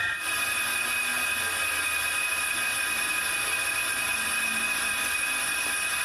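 Metal lathe running steadily, with a constant machine whine made of several high tones over a hiss.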